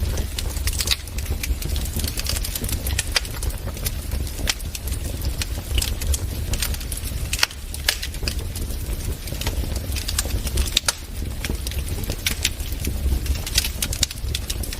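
Wood fire burning in a fireplace, crackling and popping in irregular sharp clicks over a steady low rumble of the flames.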